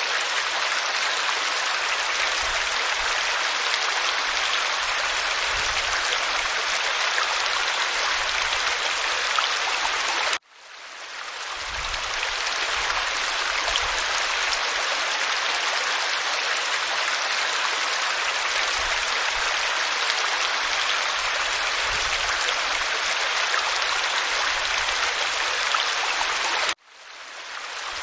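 Waterfall pouring over rock, a steady even rush of water. It cuts out suddenly twice, about 16 seconds apart, and fades back in over a second or two each time.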